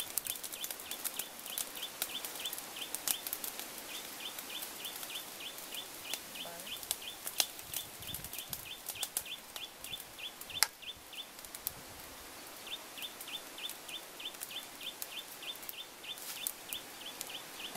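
A bird peeping in a steady series of short high notes, about three a second, with a pause about ten seconds in before it starts again. Sharp clicks and crackles are scattered through it, the loudest two around the middle.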